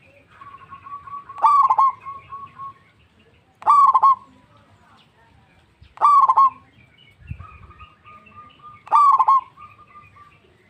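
Zebra dove (perkutut) singing: four short bursts of quick, rapid cooing notes, repeated about every two and a half seconds, with a fainter held cooing note between some of them.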